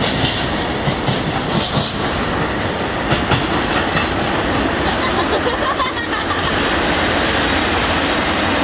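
Freight train passing close by, its wheels clacking over rail joints in an irregular run of clicks, settling into a steadier rolling rumble about six seconds in.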